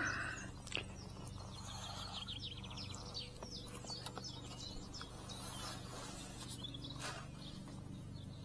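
Small birds chirping and trilling in quick, high, broken phrases, over a low steady hum.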